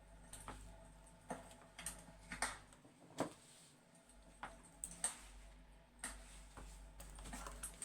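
Fireplace crackling: scattered, irregular sharp pops and snaps, about one a second, over a faint low hum.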